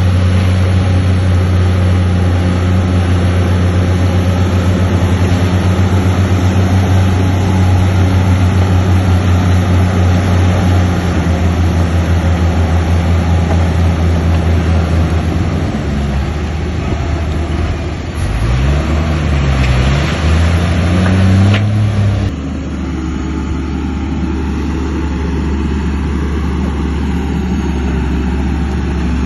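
Heavy earthmoving machine's diesel engine running steadily. Its pitch rises and falls for several seconds past the middle, then settles to a lower, steadier note about three-quarters of the way through.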